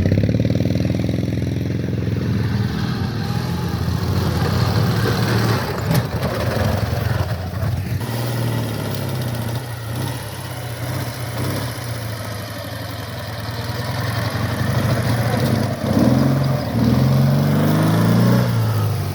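Ural motorcycle's flat-twin engine running and revving, its pitch rising and falling several times, with the strongest revs near the end.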